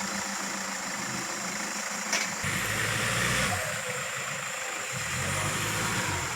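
Off-road vehicle's engine running at low speed over a rough trail, with a knock about two seconds in followed by about a second of louder engine and rushing noise.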